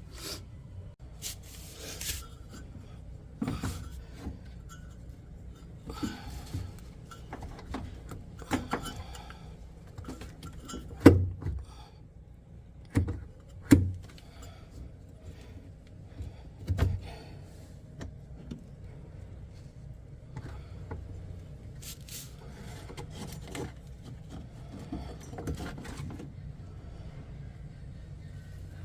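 Scattered knocks, clicks and rattles of handling, with a few sharp, louder knocks near the middle, over a steady low hum.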